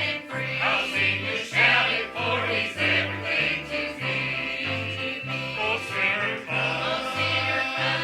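Church singers performing a gospel song with instrumental accompaniment, a bass line alternating between two low notes about twice a second under the voices.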